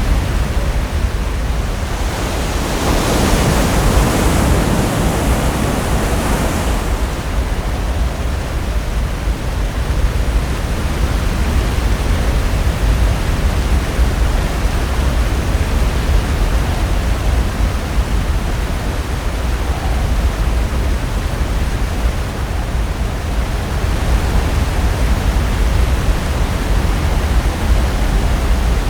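Pacific Ocean surf: a steady rush of breaking waves, with one wave breaking louder about three seconds in and washing away by about seven seconds.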